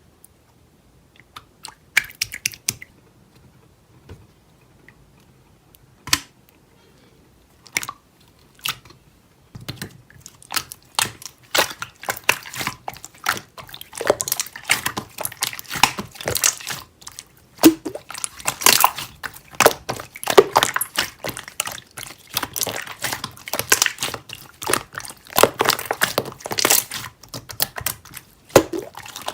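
Slime being handled: a few sticky clicks and pops at first, then from about ten seconds in a dense run of wet crackling and squishing.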